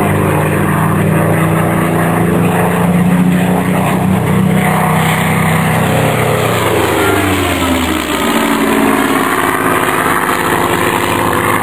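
Piston-engined propeller aircraft flying past, its engine note steady and then dropping in pitch about two-thirds of the way through as it passes.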